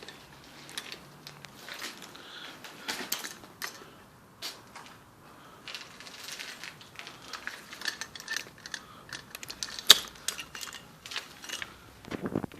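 A run of irregular small clicks, crunches and rattles, sharpest about ten seconds in.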